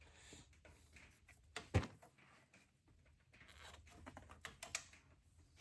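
Faint hand-work sounds of protective covers being pulled off diesel fuel-injection fittings: scattered light clicks and rattles, with one sharper click about two seconds in and a few more small clicks near the end.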